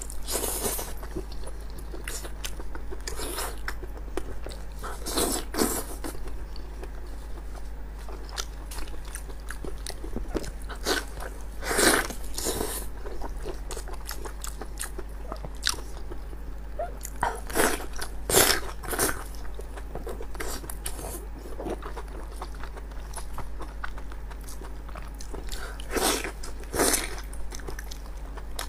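Close-miked wet chewing and biting of spicy, sauce-coated sheep offal, with louder tearing bites now and then. A steady low electrical hum runs underneath.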